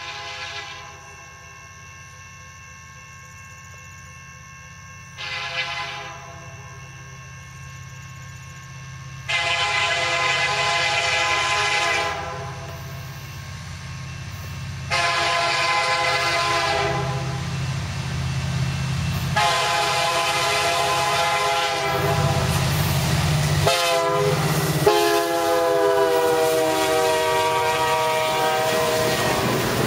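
Canadian National diesel locomotive's air horn sounding a series of blasts: faint at first, then loud long blasts from about nine seconds in with a short one near the end, over the low rumble of the locomotive.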